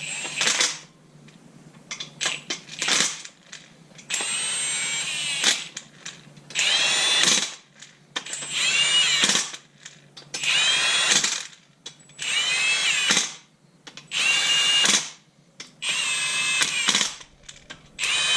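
Handheld power drill run in repeated short bursts, about one every two seconds, its motor whining up in pitch and winding down each time.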